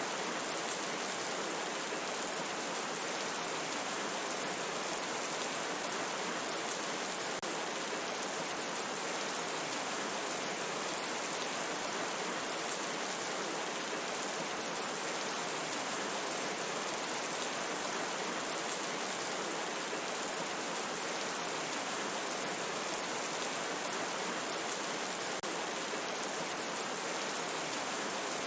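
Steady rain falling in a forest: an even, constant hiss of rainfall with fine pattering drops.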